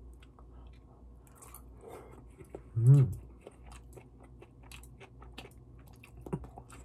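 A person chewing and biting mouthfuls of malatang, with many small wet mouth clicks. One short hummed voice sound about three seconds in is the loudest moment.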